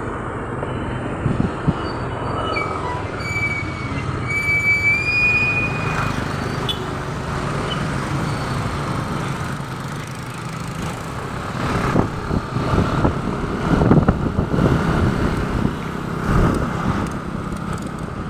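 Motorcycle on the move, heard from the rider's seat: steady engine and road noise, with a short high whistling squeal a few seconds in and uneven gusts of wind on the microphone in the second half.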